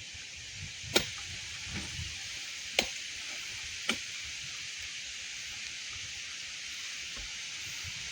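Three sharp knocks, roughly a second or two apart, in the first half, over a steady hiss.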